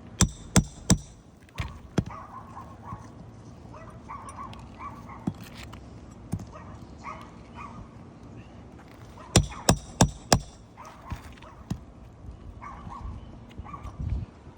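Sharp hard knocks in quick runs, three near the start and four about nine seconds in, like hammer blows. A dog barks and yips repeatedly in the background.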